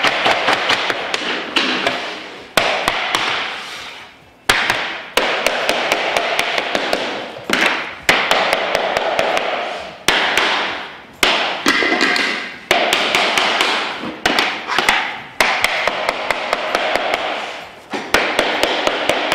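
Hammer taps and knocks as laminate floor planks are fitted together, many sharp strikes throughout, alternating with stretches of loud rasping noise that start suddenly and fade.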